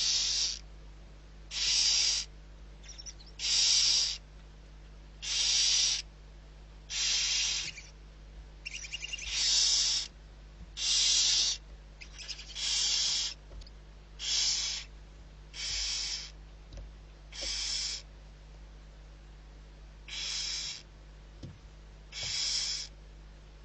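Barn owl giving a series of harsh hissing calls, each about half a second to a second long, repeating roughly every one and a half to two seconds.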